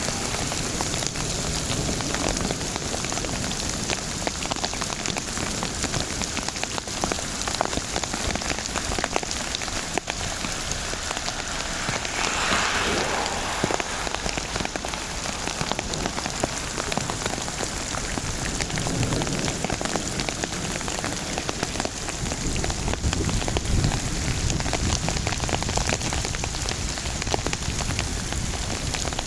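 Steady rain falling at the end of a strong thunderstorm, a dense patter of drops on surfaces. A low rumble joins in for the last several seconds.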